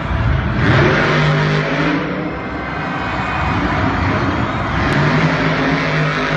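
Monster truck engine running loud, its sound swelling twice, about a second in and again near the end.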